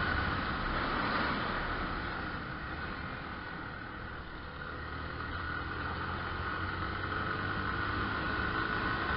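Motorcycle under way at road speed: steady engine and wind noise, easing off a little about three to four seconds in, then building again.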